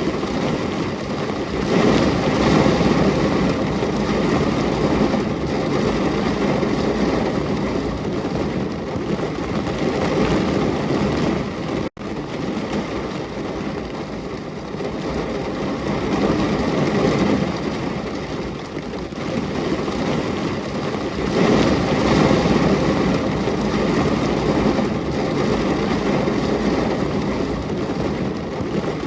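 Steady rain, a dense hiss that swells and eases every several seconds, broken once by a split-second gap about twelve seconds in.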